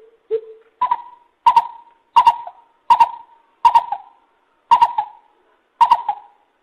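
Lesser coucal calling: one low hollow note, then a series of about seven higher hollow hoots, about one every two-thirds of a second, slowing slightly near the end.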